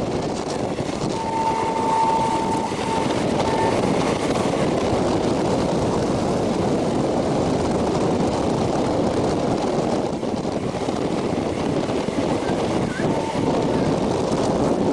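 Passenger train running, heard from an open coach door: a steady rumble of wheels on the rails mixed with wind rushing past the microphone. A brief thin high tone sounds about a second in.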